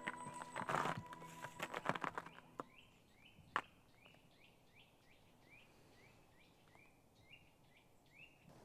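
Footsteps on the forest floor under the tail of fading background music, then a small bird in the woods calling a short, slightly falling note over and over, about twice a second. A single sharp click comes about three and a half seconds in.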